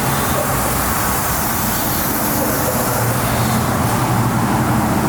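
Turbocharged 6.0 Silverado's V8 engine running steadily: a low, even drone under a broad hiss.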